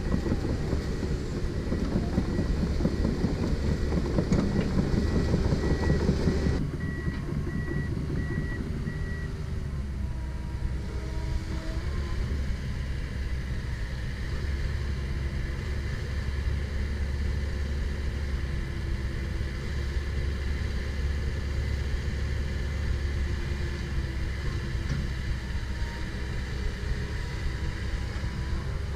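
Komatsu PC170LC-10 excavator's diesel engine and hydraulics working, loudest for the first six seconds or so, then settling to a steadier, lower run. A high-pitched beeping goes on over roughly the first nine seconds.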